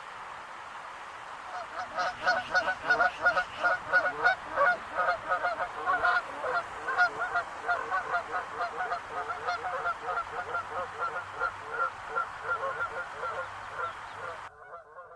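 Goose honking: a fast, unbroken series of repeated honks that starts about a second and a half in and cuts off abruptly near the end.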